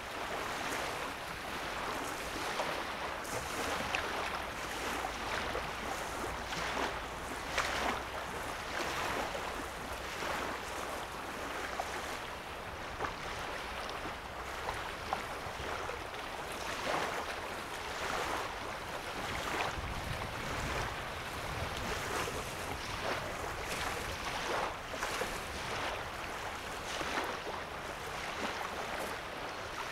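Small lake waves lapping on a sandy shore: a steady wash broken by frequent little splashes. A low rumble comes in briefly near the middle.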